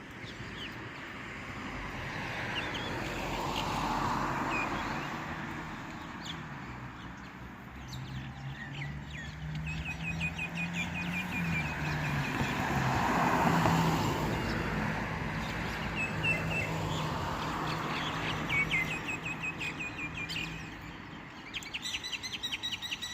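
Birds calling in runs of rapid, repeated high chirps, over a steady outdoor hum that swells twice as if vehicles were passing.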